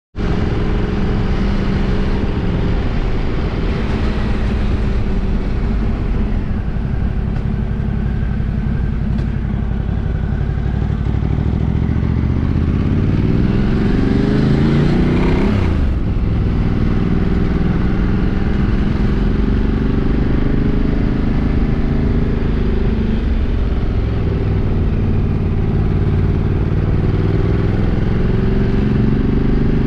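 Motorcycle engine running at low road speed as it is ridden. About halfway through the revs climb for a few seconds, then drop sharply and settle back to a steady run.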